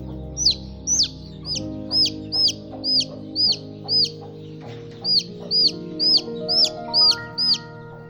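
Baby chicks peeping: a run of loud, high calls, each one a quick rise and falling sweep, about two a second, with a short pause in the middle.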